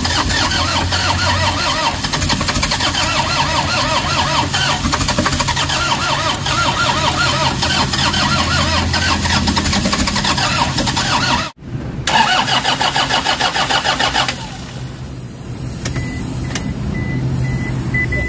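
Toyota Hiace KD diesel engine cranking on the starter in a fast, even rhythm without catching, the sign of its cranks-but-won't-start fault. The cranking breaks off briefly about eleven seconds in, resumes, and stops about fourteen seconds in. It is followed by a quieter steady sound with a few clicks and short high beeps.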